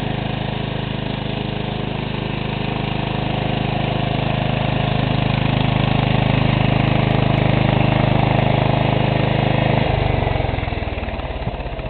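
Power King 1618 tractor's 18 hp Kohler K-361 single-cylinder engine running at wide-open throttle through an upright Allis-Chalmers muffler. About ten seconds in, the engine slows as the throttle is pulled back.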